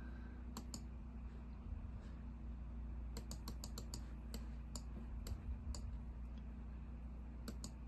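Scattered clicks and taps on a computer keyboard and mouse, including a quick run of keystrokes about three seconds in, over a steady low hum.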